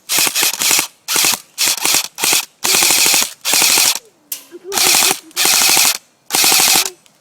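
Airsoft gun firing full-auto in about nine short bursts of rapid shots, each under a second long, with brief pauses between.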